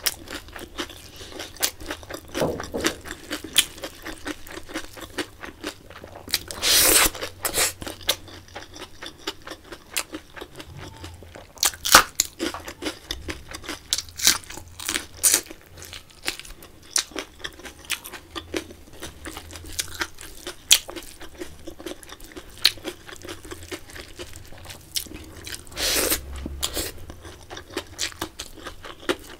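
Close-miked chewing with many crisp crunches, as crispy fried potato sticks and rice are eaten by hand. There are a few louder bursts of crunching about seven seconds in and again near the end.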